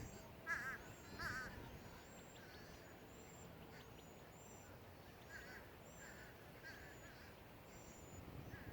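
Faint calls of birds: two clearer calls about half a second and a second and a half in, a few weaker ones later, over high, thin chirping.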